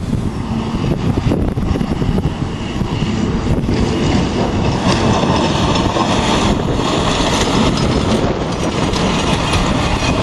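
Blizzard wind blowing hard: a steady loud roar with heavy buffeting on the microphone.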